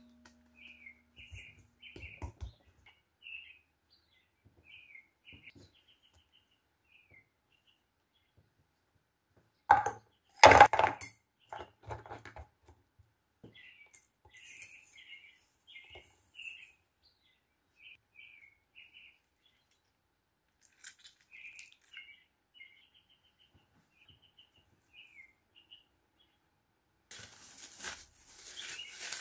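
Small birds chirping on and off in the background, with a loud clatter of kitchenware about ten seconds in and a plastic bag rustling near the end.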